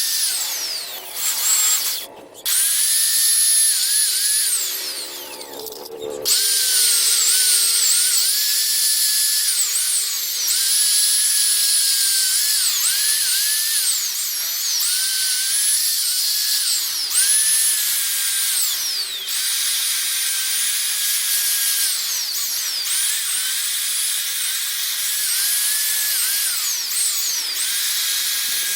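High-speed electric power tool buffing a motorcycle exhaust pipe: a high whine whose pitch dips and recovers over and over, cutting out briefly twice in the first six seconds.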